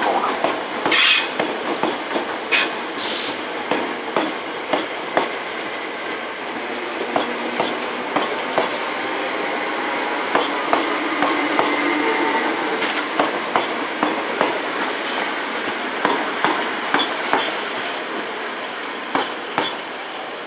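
First Capital Connect electric multiple unit running past, its wheels clicking over rail joints and pointwork in an uneven rhythm over a steady rumble, with a faint wheel squeal about halfway through.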